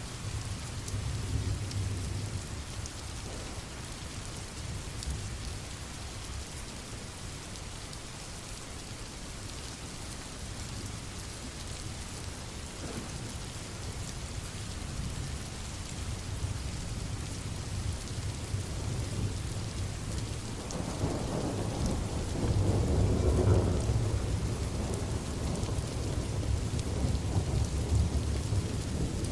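Steady rain with low rolling thunder, the thunder swelling louder about two-thirds of the way through.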